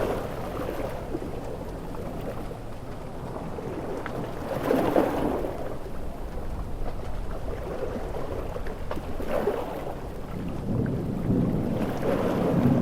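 Storm ambience of heavy rain with sea waves and rumbling thunder: a steady rain hiss with louder swells about 5 seconds in, around 9 seconds, and again near the end.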